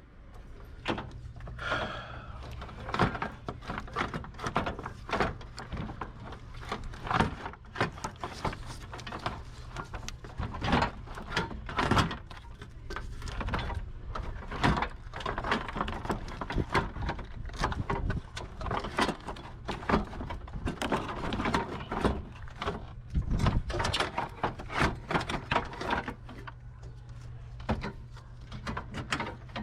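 Irregular clicks, clanks and knocks of hand tools and car parts being handled, over a steady low hum.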